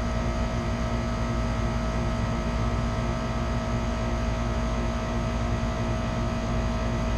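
Steady machine hum of a running electric motor: a constant low drone with several fixed tones over it, unchanging throughout.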